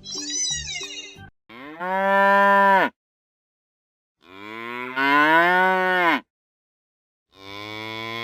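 A cow mooing three times, each moo a long low call of one to two seconds with gaps of silence between, after a brief warbling high-pitched sound at the very start.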